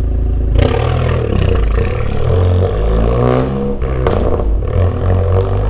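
Turbocharged Honda Accord four-cylinder, straight-piped with muffler and resonator deleted, accelerating hard, its exhaust note climbing in pitch again and again, with two sharp bursts of noise about halfway through.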